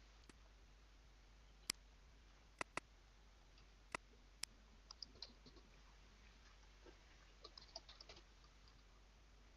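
Computer mouse clicking a few times, two of them in quick succession, with fainter ticks in between, against near silence.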